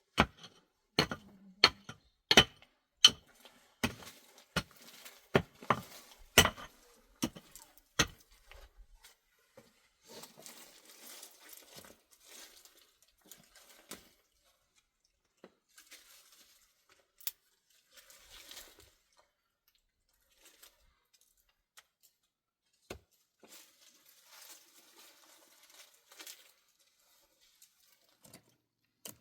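Hard objects knocking and clinking together, one or two sharp strikes a second for about eight seconds. Then fainter rustling with a few scattered clicks.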